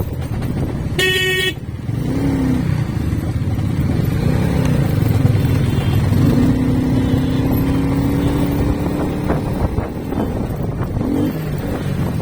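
Motorcycle riding on a road with steady engine and road noise. A vehicle horn toots once, briefly, about a second in, and an engine note rises slightly in pitch for about three seconds in the middle.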